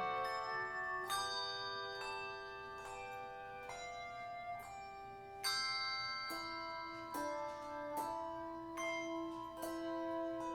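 Slow instrumental music of struck, bell-like notes that ring on, a new note sounding about once a second.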